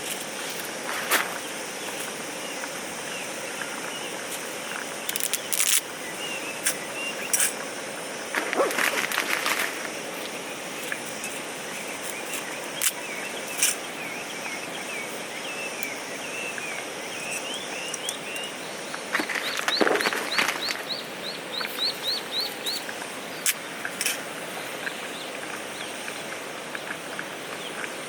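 Steady rushing of a river stream with birds singing over it, including a fast high trill past the middle. A scattering of sharp clicks and two brief splashy bursts stand out, the louder of them just past the middle.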